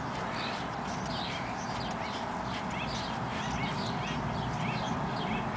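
Small birds chirping: many short, high chirps, several a second, over a steady low background hum.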